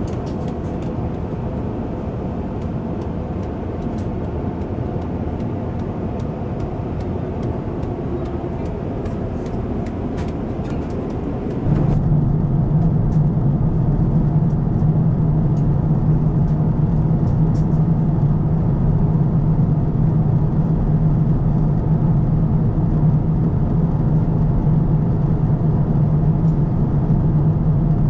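Steady drone of an airliner cabin, with no words. About twelve seconds in, the sound steps up abruptly to a louder, deeper hum.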